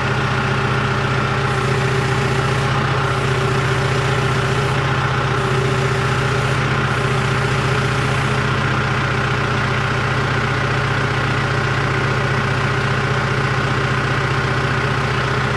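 John Deere 210LE loader's diesel engine idling steadily.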